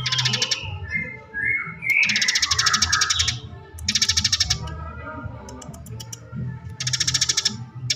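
Eurasian tree sparrow chattering in fast rolling trills, four bursts about two seconds apart with short gliding chirps between them, as in a sparrow's fighting song. A steady low hum runs underneath.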